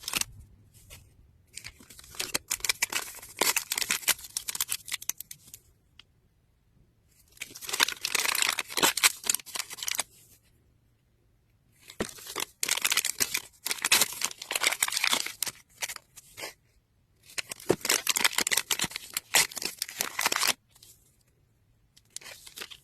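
Thin plastic wrapping being torn and crinkled open by hand, in several bursts of a few seconds with short pauses between.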